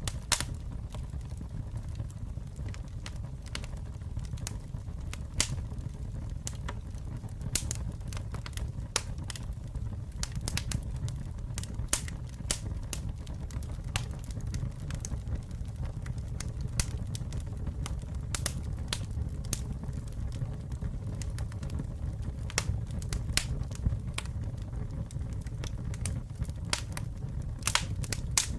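Campfire burning: wood crackling with irregular sharp pops, a few louder, over a steady low rumble of the flames.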